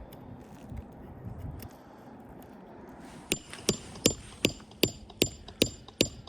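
A run of about eight sharp, evenly spaced metallic clicks, two to three a second, starting about halfway through over low outdoor background noise.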